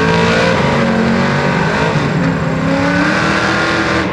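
Drag racing car engine accelerating hard at full throttle, its pitch climbing, levelling off, then climbing again before it drops away at the very end.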